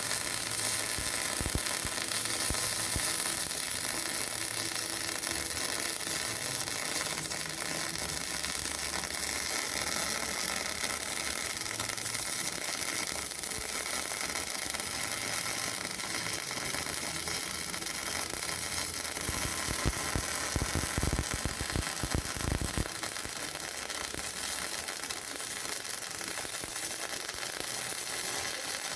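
MIG welding arc on a steel pipe joint, a steady crackling sizzle. A short run of low thumps comes about two-thirds of the way through.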